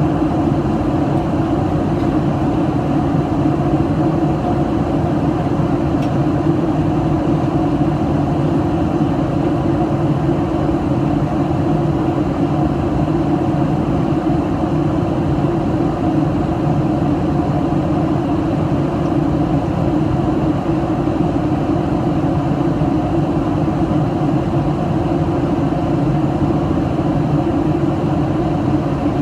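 Steady cabin drone of a Boeing 737-800 in flight, the CFM56-7B turbofans and the airflow past the fuselage heard from inside the cabin as an even rumble with a low hum.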